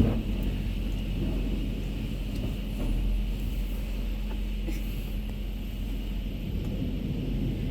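Steady low rumble with a faint steady hiss, heard from inside a truck's cab while the truck is being power-washed, with one short knock right at the start.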